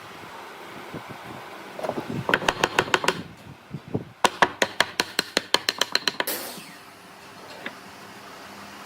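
Two quick runs of sharp, rapid taps, about eight a second: the first lasts about a second, the second about two seconds, and it is followed by a brief hiss.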